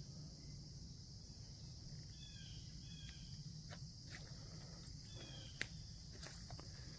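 Steady chorus of insects, a constant high hiss, with a few short chirps about two to three seconds in and again around five seconds, and scattered faint clicks.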